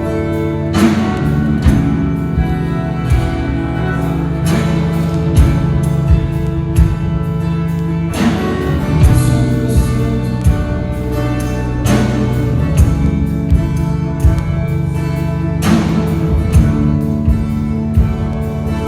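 Worship band playing an instrumental passage without singing: sustained chords with guitar over a steady drum beat.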